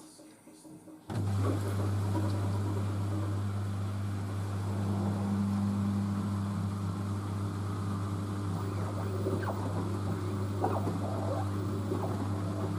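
LG DirectDrive F1496AD washer dryer's drain pump humming steadily as it pumps out water between spins. The hum starts abruptly about a second in and holds one steady low tone.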